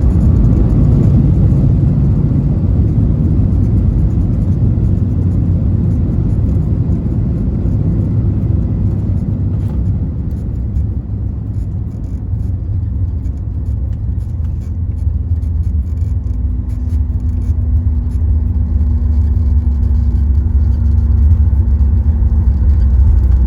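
Cabin noise inside a Boeing 737 MAX 9 as it moves on the ground: a loud, steady low rumble from its CFM LEAP-1B engines and the airframe. A steady hum joins about two-thirds of the way through.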